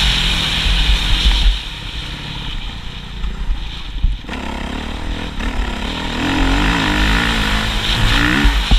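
Motocross motorcycle engine revving up and down, its pitch rising and falling. It is loud at first, eases off about one and a half seconds in, and builds again from about five seconds.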